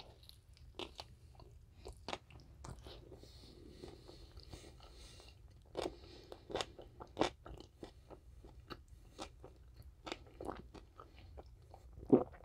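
Quiet chewing of a bite of a double quarter pounder with chicken nuggets inside: soft, irregular crunches and wet mouth clicks, with one louder mouth sound near the end.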